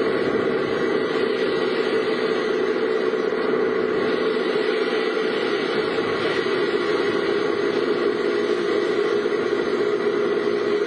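Steady vehicle engine and road noise from a car being driven, holding an even level without revving or breaks.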